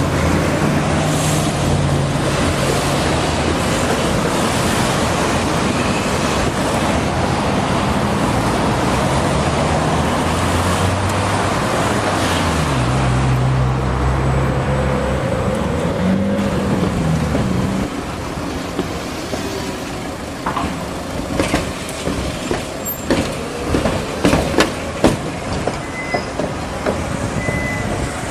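Tram running on a city street: a low motor hum that steps and glides in pitch over loud rolling noise for about eighteen seconds. The sound then drops back to quieter street noise with a run of sharp clicks and knocks.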